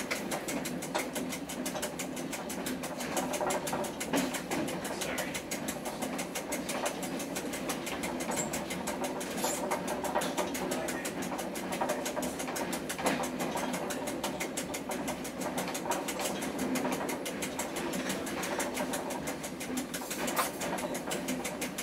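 Train running along the track, heard from inside the driver's cab: a steady mechanical running sound with a fast, even rattle.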